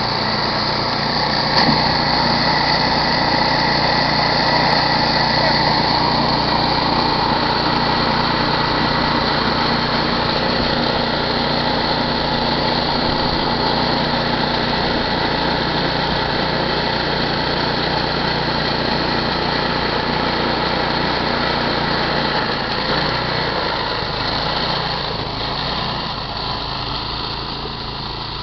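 Snowblower's small petrol engine running steadily, easing off a little over the last few seconds.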